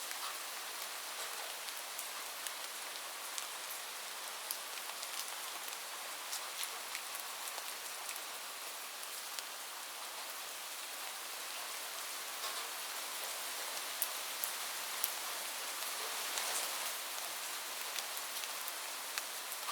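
Steady rain falling on a roof, an even hiss with many distinct drops ticking on the surface. There is no thunder.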